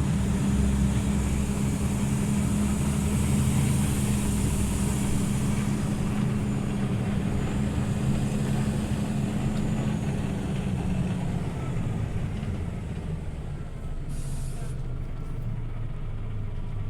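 Scania OmniLink city bus running, a steady engine drone for about the first eleven seconds that then eases off, with a short hiss of compressed air about fourteen seconds in.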